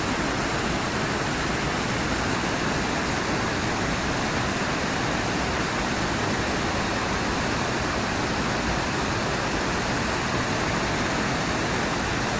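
Whitewater rapids rushing: a steady, unbroken roar of water.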